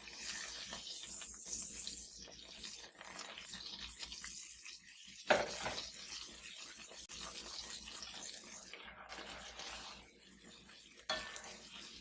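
Cooking in a pan: food sizzling steadily while a utensil stirs it, with a sharp clink of the utensil against the pan about five seconds in and another near the end.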